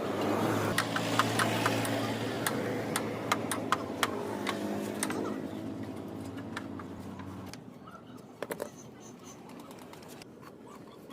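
A motorcycle engine, plausibly the Hero Splendor's single-cylinder engine, running with a steady low hum and sharp clicks over it, then dying away after about seven seconds.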